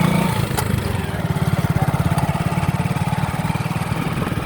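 Motorcycle engine running at low speed under the rider, with an even, rapid pulsing beat. It is a little louder at the start and eases off slightly just after.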